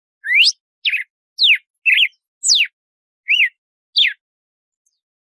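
Red-cowled cardinal (galo-de-campina) singing its 'açoite' song: seven clear whistled notes at about two a second, most of them quick downward sweeps, the first one rising, with a pause after about four seconds.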